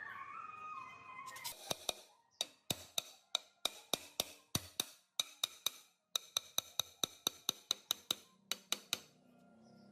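Music for the first second or so, then a run of sharp, short taps, about three or four a second with near-silent gaps between them, stopping about a second before the end.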